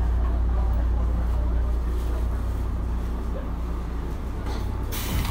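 Steady low rumble of a Tobu 9050 series electric commuter train car, with a short burst of hiss about five seconds in.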